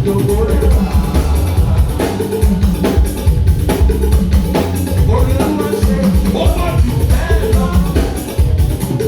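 Live church band music with a heavy drum beat and singing voices.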